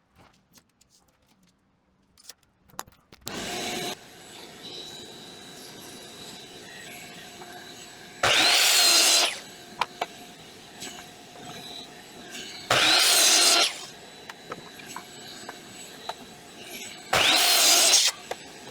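Power saw crosscutting wet pressure-treated deck boards to length: three loud cuts of about a second each, with a steady machine hum running between them.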